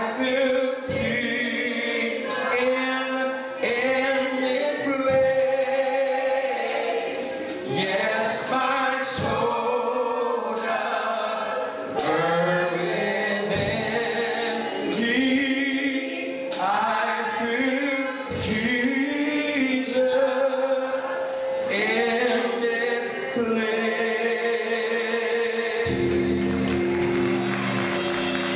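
Gospel choir singing with accompaniment, punctuated by sharp percussion hits. Near the end the voices stop and instruments hold steady chords.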